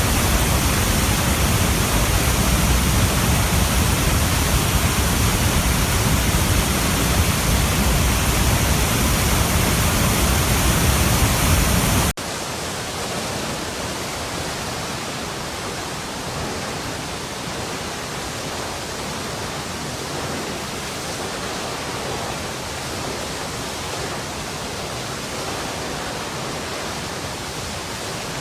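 Running water, a steady full, rushing flow. About twelve seconds in it cuts abruptly to a quieter, thinner flow with less deep rumble, which then runs on evenly.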